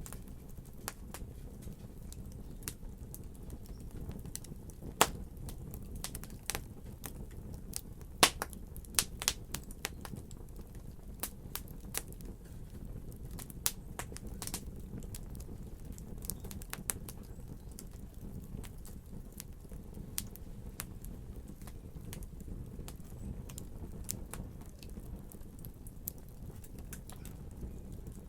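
Wood fire crackling: a steady low rumble of burning with frequent sharp, irregular pops and snaps, a few louder ones in the first third.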